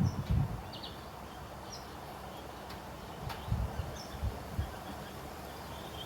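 Outdoor ambience: faint, scattered bird chirps, with a few low thumps near the start and again around the middle.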